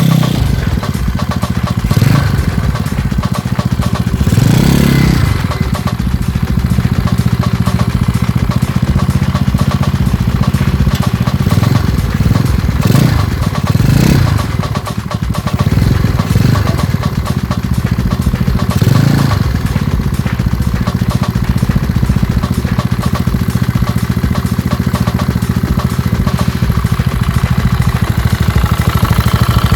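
Modified Yamaha Mio automatic scooter's single-cylinder four-stroke engine idling, with several short throttle blips that rev it up and let it drop back, the biggest about five seconds in. The title likens its thumping note to a klotok boat engine.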